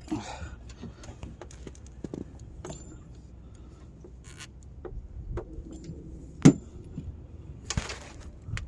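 Hands seating ignition coils and pushing their electrical connectors home in an engine bay: scattered light clicks and clinks of plastic and metal, with one sharp click about six and a half seconds in and a short rustle near the end.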